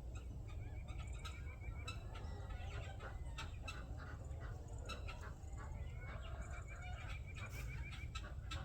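Poultry flock calling during feeding, with two rapid runs of short repeated high notes and many short clicks throughout.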